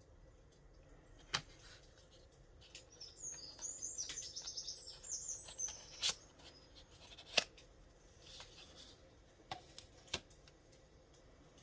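Small songbird singing a rapid chirping trill for a few seconds, with a shorter chirp later. A few sharp, separate clicks or snips come over it, the loudest about two-thirds of the way through.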